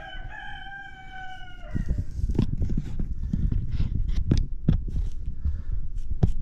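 A rooster crows once, a single call of under two seconds that falls slightly in pitch at the end. Then come close, loud low rumbling and irregular knocks.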